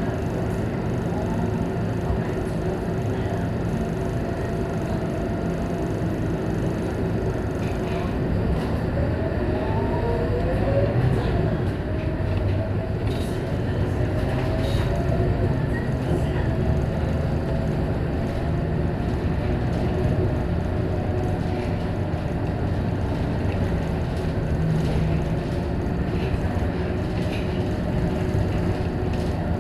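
Scania K230UB single-deck bus running along the road: a steady engine and road rumble with a constant whine, and a brief rise and fall in pitch about ten seconds in.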